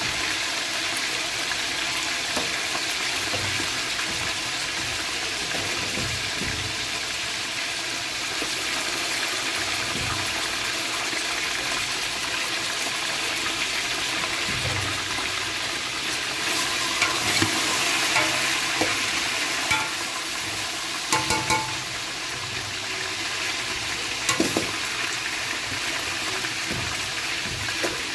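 Food sizzling steadily in a cooking pot, with a metal spoon stirring it and knocking against the pot several times in the second half.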